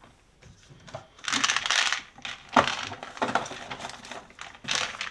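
Pills and plastic pill containers being handled and sorted: rustling and rattling in several bursts, with a sharp click a little over two and a half seconds in.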